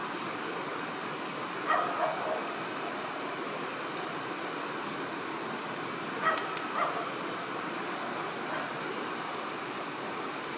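Wood campfire crackling, with scattered sharp pops over a steady hiss. Twice an animal gives a short run of quick pitched calls, like barks, which are the loudest sounds.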